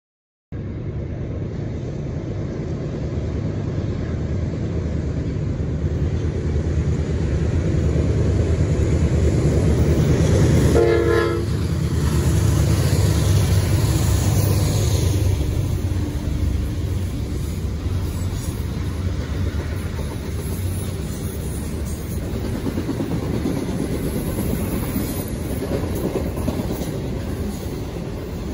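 Norfolk Southern diesel locomotive passing with a double-stack container train, engine running with a low rumble that starts suddenly about half a second in. A short horn blast sounds about eleven seconds in. After it, the container cars roll by with steady wheel clatter.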